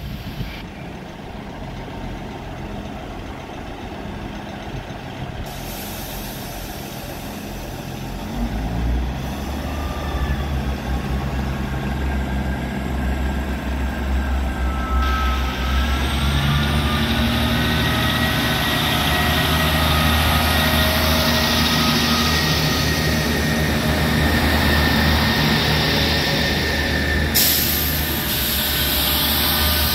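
A passenger train at a station platform. Its running noise grows louder from about a third of the way in and then holds steady, with whining tones that bend upward. A hiss breaks off sharply near the end.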